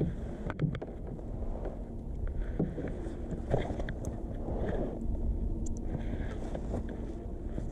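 Low rumbling noise with a faint steady hum and a few light clicks and knocks, from fishing gear being handled in a kayak on the water.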